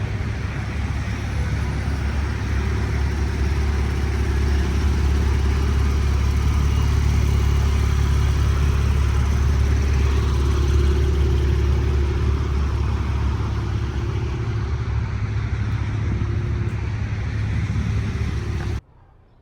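A car running at a steady speed: a deep, steady engine drone under road and wind noise. It cuts off suddenly near the end.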